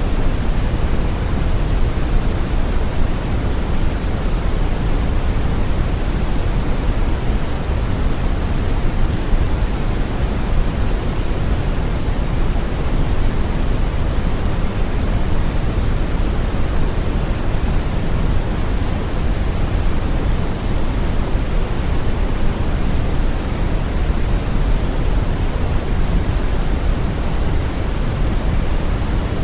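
Steady brown noise: a deep, even rushing hiss, strongest in the bass and softer in the treble, with no change in level.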